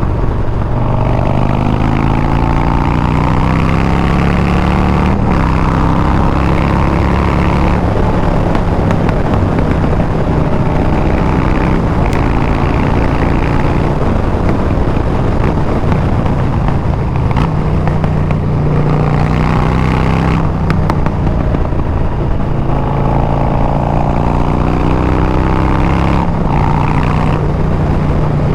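Harley-Davidson Milwaukee-Eight 114 V-twin running loud through a Bassani exhaust while riding. Its pitch climbs under acceleration and drops back at each gear change, several times over, between stretches of steady cruising.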